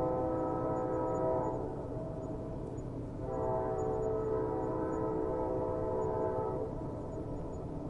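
Train horn sounding two long blasts, a chord of several steady notes, over a steady low rumble of the train. The first blast is already sounding and stops about a second and a half in; the second starts a couple of seconds later and holds for about three and a half seconds.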